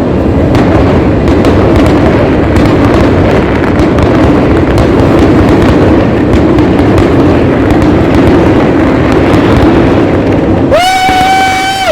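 Fireworks display going off in a dense, continuous barrage of bursts and crackles, very loud throughout. Near the end a high, steady whistle-like tone sounds for about a second over the barrage.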